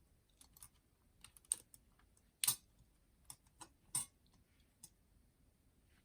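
Scattered light clicks and taps of a boombox's plastic casing and parts being handled and fitted back together, irregular, with a louder knock about two and a half seconds in and another about four seconds in.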